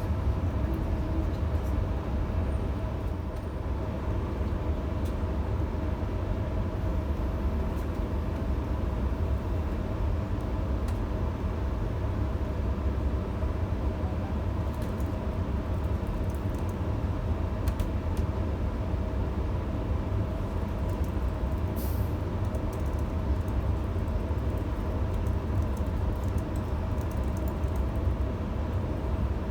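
Electric passenger train running, heard from inside the carriage: a steady low rumble with a faint steady hum over it.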